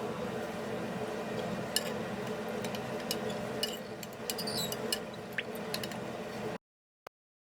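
Light clinks and clicks of small hard parts being handled, over a steady machine hum, while the fan's parts are being cleaned. The sound cuts off abruptly about a second before the end.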